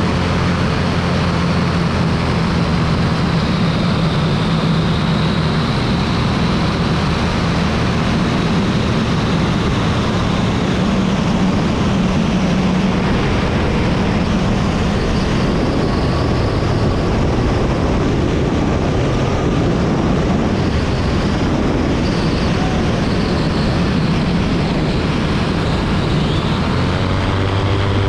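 Ultralight aircraft engine and propeller droning steadily under heavy wind rush, its note rising in pitch near the end.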